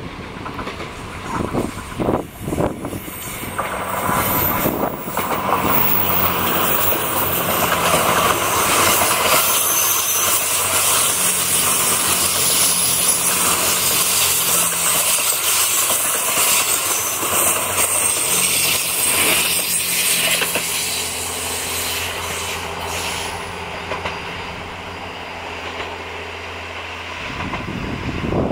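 The JR West 87 series "Twilight Express Mizukaze" train passes close by: a loud, rushing run of wheels on the rails as the cars go past. This gives way to a steady low engine hum from its diesel generator sets. Wind buffets the microphone at first, and the sound cuts off abruptly near the end.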